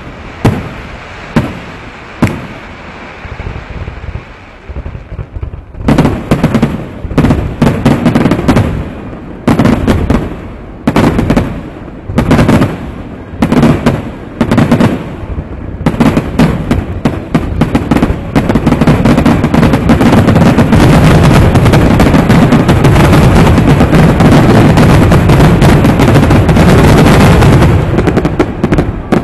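Aerial fireworks display, very loud: separate shell bursts at first, coming thick and fast about six seconds in, then from about eighteen seconds a near-continuous barrage of booms and crackle that eases off near the end.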